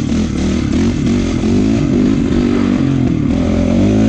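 Honda CRF450 dirt bike's single-cylinder four-stroke engine revving up and down under riding, its pitch rising and falling several times.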